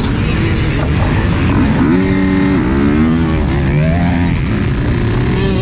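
Motocross bike engines running, with one engine revving up and back down about two seconds in and again briefly near four seconds.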